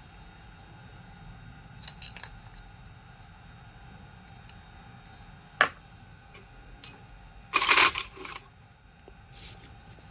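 Sharp clicks and a short rattling clatter of small hard parts being handled on a workbench, the loudest clatter a little before the end, over a faint steady hum.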